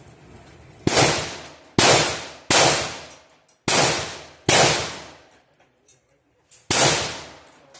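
Gunshots at a firing range: six sharp reports at uneven spacing over about six seconds, each with a short ringing tail.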